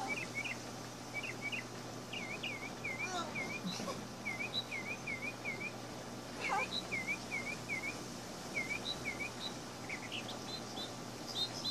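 Outdoor birdsong: birds chirping, with runs of three or four short, repeated whistled notes, over a steady low hum.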